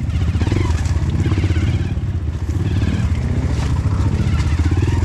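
A single-cylinder dirt bike engine, a Honda CRF150L, running as the bike is ridden off-road.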